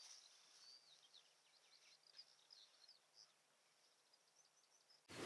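Near silence with faint birdsong: a run of short high chirps and whistles. A steady hiss of outdoor noise cuts in suddenly near the end.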